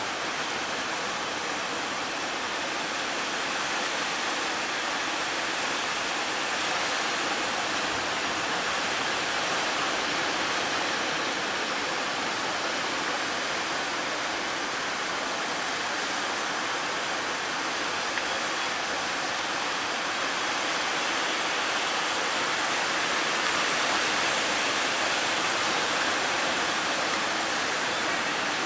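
Sea surf: a steady rush of breaking waves.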